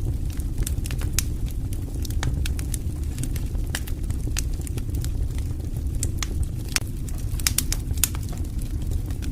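Wood fire in a fireplace crackling and popping, with irregular sharp snaps over a steady low rumble of burning.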